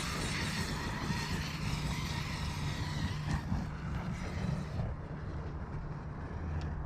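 Arrma Kraton 8S 1/5-scale electric RC truck driving, its brushless motor and drivetrain whining with tyres running over the ground; the high end of the sound drops away about five seconds in.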